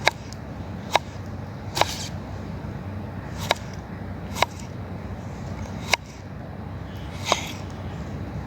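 Cooking utensils knocking and clicking: about seven sharp knocks at uneven intervals, some with a short ring, over a steady low background noise.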